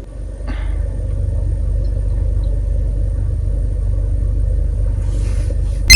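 A steady low rumble with no speech, at a moderate level.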